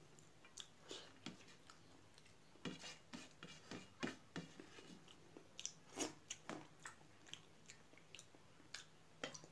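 Faint close-miked eating sounds: irregular soft clicks of chewing and mouth smacks, with fingers gathering rice on a steel plate.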